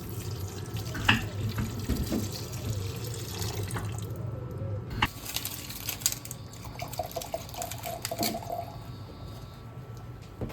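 Kitchen tap running into a sink, with a few sharp knocks.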